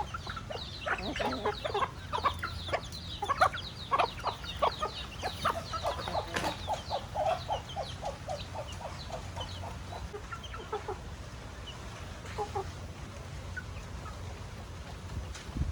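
Flock of chickens clucking, many short calls overlapping. The clucking is busiest in the first half, with a run of quick, even clucks about halfway through, then thins out toward the end.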